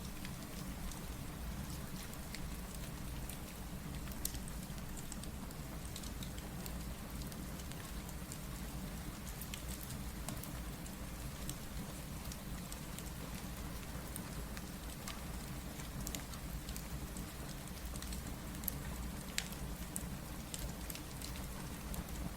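Steady rain with a low rumble underneath, and scattered sharp crackles and pops of a wood fire, a couple of louder pops about three quarters of the way through.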